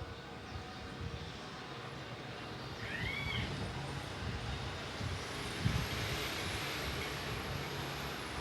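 Vehicle noise: a low engine rumble with a wash of noise that swells about two and a half seconds in, as of a motor vehicle going by. A single short high chirp sounds about three seconds in.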